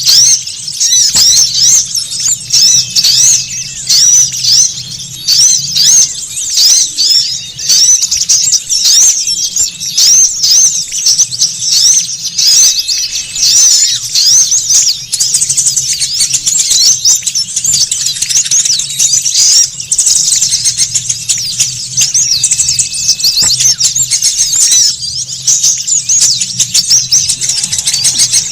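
Many small songbirds twittering and chirping at once, a dense, high-pitched, unbroken chatter of quick overlapping notes. This is a bird-lure recording of noisy small birds, played to draw wild small birds in. A faint low hum sits underneath.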